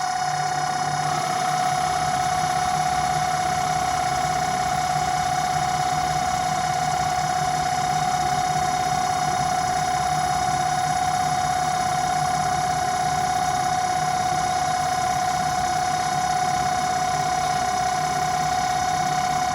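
Home-built CNC lathe running, its motors giving a steady high whine with many overtones. A lower hum joins about a second and a half in.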